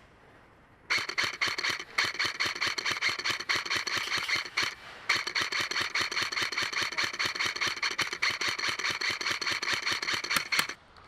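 Customised KWA Commando airsoft electric gun (AEG) firing full-auto in two long bursts of rapid clicks, with a gearbox whine running under them. The bursts break briefly about halfway through.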